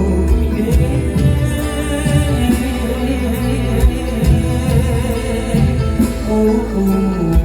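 Live mor lam band music.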